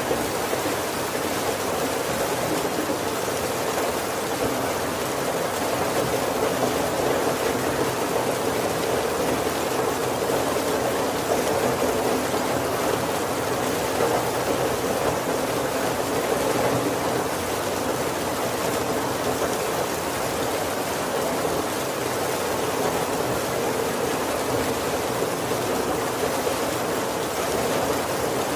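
Heavy rain falling steadily on the roof and windows of a wooden carriage, an even wash of rain noise with no thunder.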